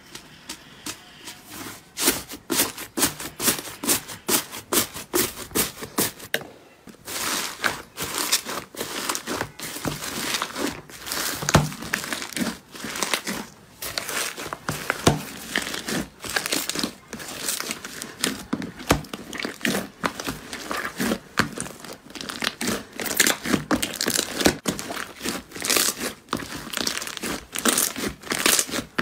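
Slime being squeezed and pressed by hand, giving rapid, irregular crackling and popping clicks, with a brief lull about six and a half seconds in.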